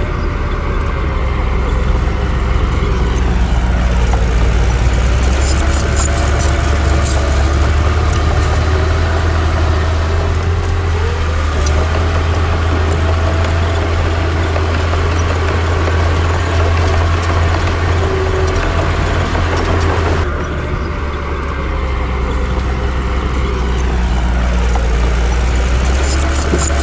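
Heavy diesel engines of earthmoving machinery running steadily, the engine speed rising and falling, with a few light clanks. The sound dips briefly about 20 seconds in, then picks up again.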